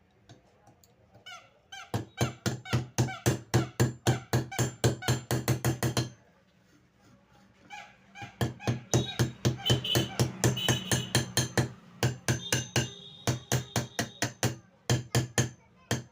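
Small hammer tapping rivets on a table fan motor's bush cover plate, rapid ringing metal strikes, about five a second, in three runs with short pauses between them.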